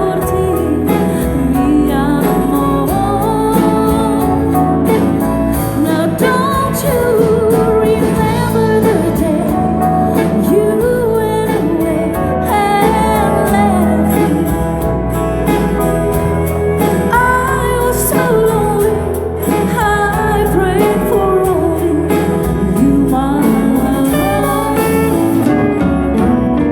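Live country band playing, with guitar, singing and a steady beat.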